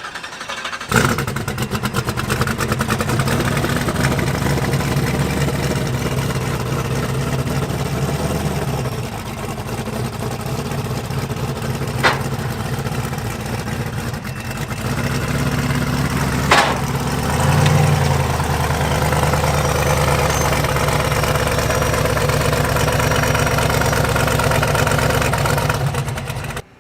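An engine starts about a second in and runs loudly and steadily, easing a little midway and picking up again later. Two sharp clicks come in between, and the sound cuts off abruptly near the end.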